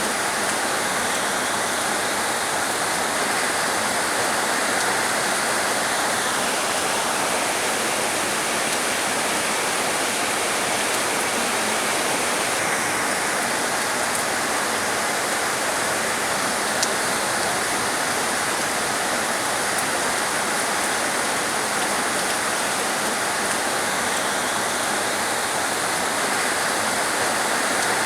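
Heavy rain falling as a steady, dense hiss with no separate drops standing out. A single faint tick sounds about seventeen seconds in.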